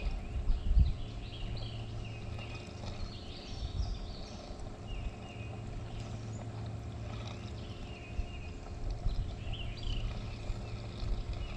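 Birds chirping and singing in short repeated calls over a steady low hum, with a few dull low thumps.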